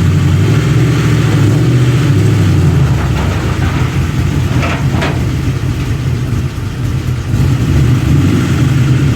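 Ford Mustang GT's 4.6-litre two-valve V8 running steadily. Its note drops and softens about three seconds in, then picks back up near the end.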